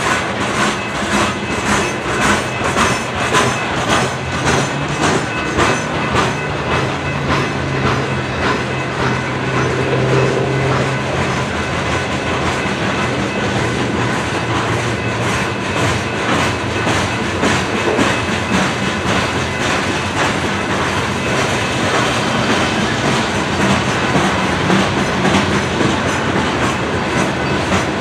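A coal train's steel-wheeled coal cars rolling steadily past, the wheels clicking over the rail joints in an even repeating rhythm.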